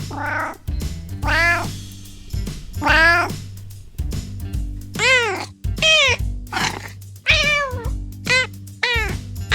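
Domestic cat meowing over and over, about ten meows, each rising then falling in pitch; the later meows are shorter and quicker, about two a second near the end.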